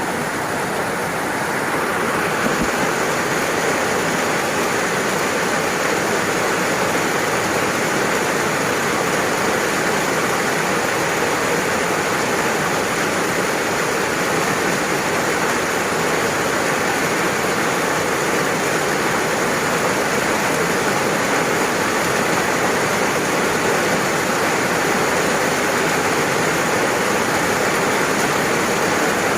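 Steady, heavy rain: an even, continuous hiss of falling rain with no single drops standing out.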